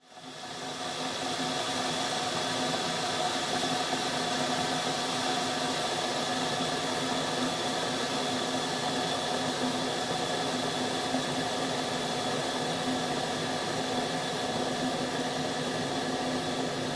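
Electric kettle heating: a steady hum with a few faint held tones, fading in over the first second and then staying level.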